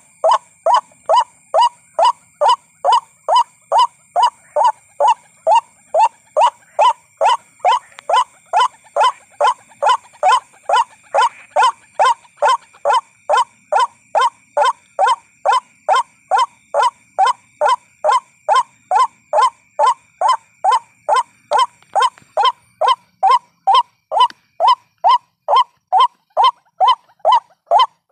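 White-breasted waterhen calls used as a trapping lure: a loud, steady, rhythmic run of short calls, about two a second. A faint steady high-pitched drone behind them stops about three-quarters of the way through.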